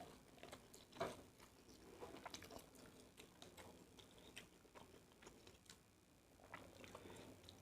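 Faint chewing of a mouthful of fried rice, with scattered soft mouth clicks and smacks and a slightly louder tap about a second in.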